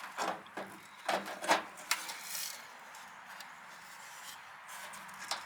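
A few light clicks and knocks in the first two seconds as a part is handled and turned over, then a brief rub, and little after that.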